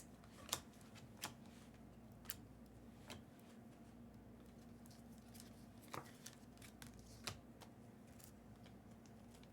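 Faint handling of trading cards being flipped through: half a dozen short, sharp clicks and snaps spread out over a low steady hum.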